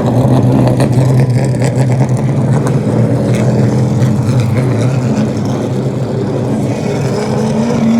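Race cars' engines droning steadily as the field circles the track under caution. The drone eases somewhat past the middle, and one engine rises in pitch near the end.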